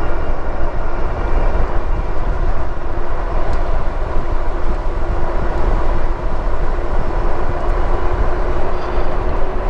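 Wind rushing and buffeting over a chest-mounted microphone on a moving e-bike, with road noise and a faint steady hum underneath.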